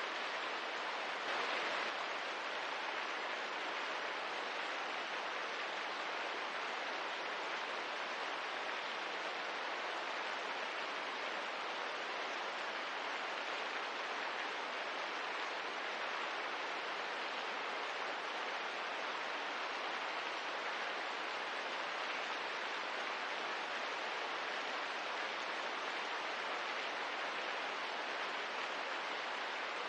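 Steady rain falling, an even hiss with no break, swelling slightly about a second and a half in.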